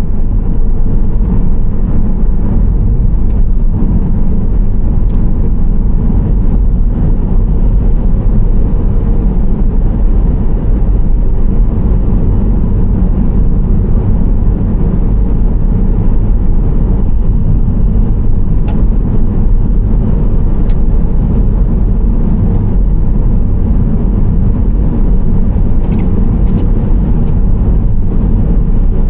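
Nissan Serena C25 minivan driving at steady speed: a continuous low rumble of tyres and engine. A few faint ticks sound in the second half.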